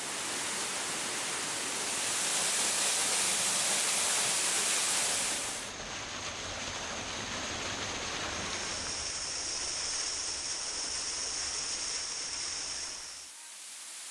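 Steady rushing water, as from a river or waterfall. It is loudest and hissiest for the first five seconds, changes abruptly about six seconds in, and drops again near the end.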